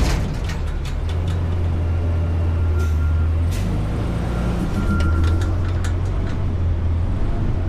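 Front-load garbage truck's diesel engine running steadily, with a few light clanks and a faint brief high tone twice.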